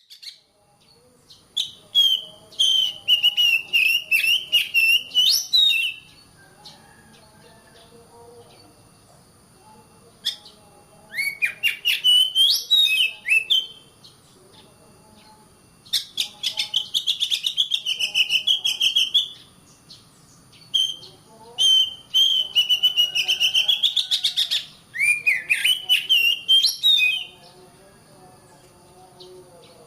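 Oriental magpie-robin (kacer) singing loud, rapid phrases of high chirps and whistles, in five bursts of a few seconds each with short pauses between, over fainter low warbling.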